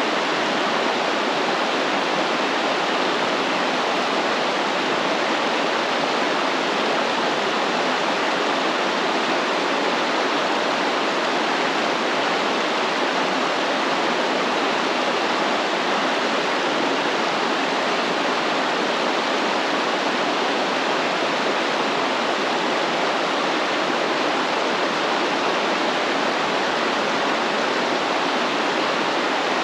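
Stream water flowing steadily, a constant rushing and splashing over rocks.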